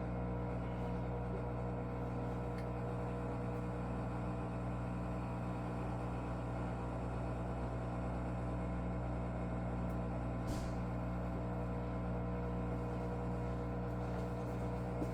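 Electrolux washing machine drain pump running with a steady hum of several held tones. The owner calls it laboring and takes it for a pump fault, since it happens even with only water in the drum.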